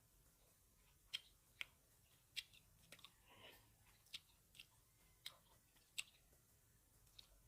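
Grapes being chewed close to the microphone: about seven sharp, irregularly spaced mouth clicks and pops, with a softer chewing sound around the middle.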